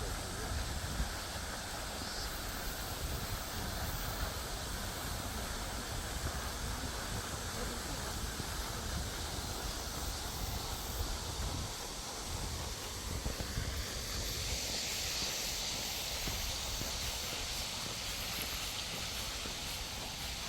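Steady outdoor noise with a low rumble from the moving microphone. About two-thirds of the way in, a high, even hiss joins and holds.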